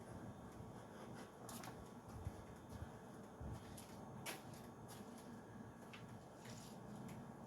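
Faint handling noise: a few light clicks and rustles as a car part is worked by hand into place.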